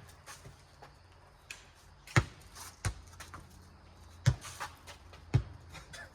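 A four-square ball in play: a rubber ball being struck by hand and bouncing, giving four sharp smacks at irregular intervals with a few fainter taps between, over a faint steady low hum.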